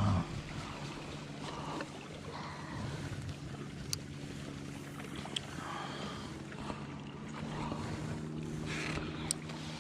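A steady low hum, as from a small motor, with a few light clicks.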